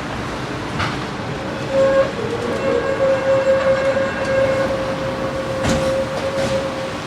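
Tram running on rails. About two seconds in, a long steady pitched tone starts and holds for about five seconds. A couple of sharp clacks come through.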